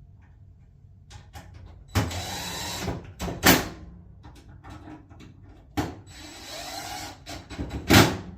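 Two short runs of a cordless screw gun driving fine-thread screws into a dryer's sheet-metal front panel, each lasting about a second and ending in a sharp click as the screw seats.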